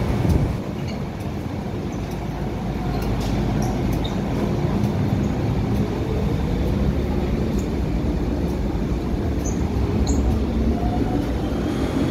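MTR M-Train electric multiple unit pulling away: a steady rumble of wheels on the track, with a faint whine rising in pitch as it gathers speed, and a few light clicks.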